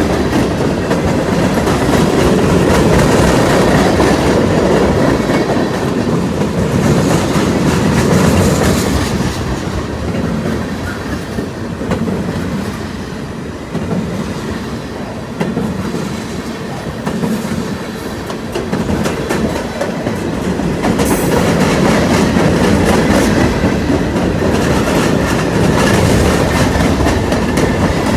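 Freight train cars rolling past, their steel wheels clacking over the rail joints in a continuous loud rumble that eases a little midway and builds again.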